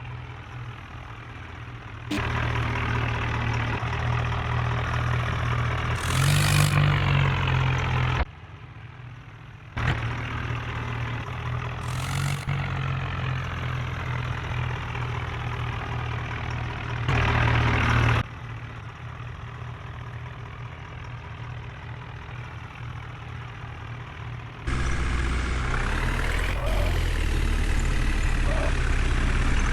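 Heavy diesel engines running, at times louder as if revved under load, in short clips joined together; the level jumps abruptly at each cut.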